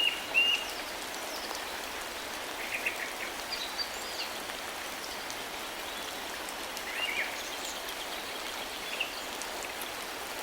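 Starling calling: a quick series of short arched chirps that ends about half a second in, then scattered chirps and brief notes a few seconds apart, over a steady hiss.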